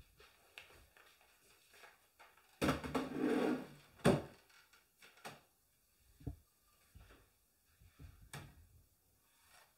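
Handling sounds of a laptop being moved and set down: a short scraping rustle about three seconds in, then a sharp knock, followed by a few fainter knocks.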